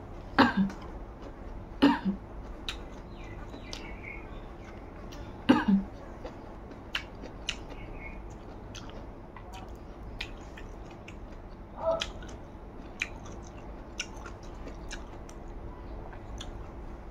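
Close-up chewing of raw green leaves and rice eaten by hand: many small wet mouth clicks and smacks, with a few louder bites, three in the first six seconds and one about twelve seconds in.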